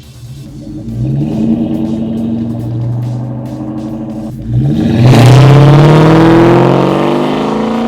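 2003 Mustang Mach 1's 4.6-litre V8 exhaust through BBK Varitune adjustable mufflers and catback, accelerating through the gears. The pitch climbs, dips at a shift about four and a half seconds in, then the engine pulls hard and louder with the pitch rising again.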